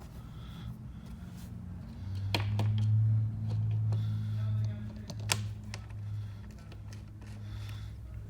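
A few sharp clicks and taps of a fuel valve and its gasket being pressed and fitted against a fuel tank, over a steady low hum that swells for a couple of seconds.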